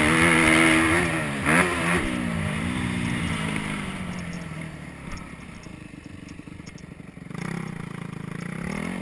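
Motocross dirt bike engine revving hard on the throttle, with a quick blip about a second and a half in, then backing off so the pitch drops and the engine quietens. Near the end it comes back on the throttle and gets louder again.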